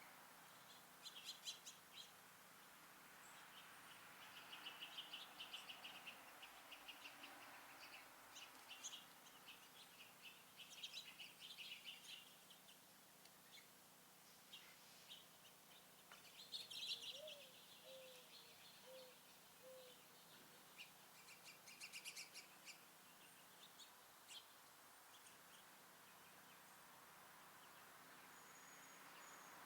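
Small songbirds chirping and twittering, faint, in short scattered bursts of quick, high notes with pauses between them.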